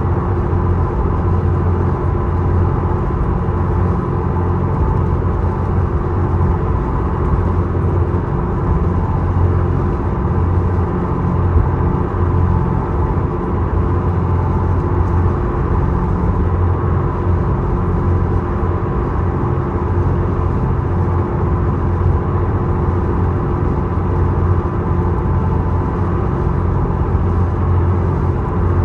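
Small ferry's engine running steadily, heard on board as a constant, loud, low drone with a steady hum.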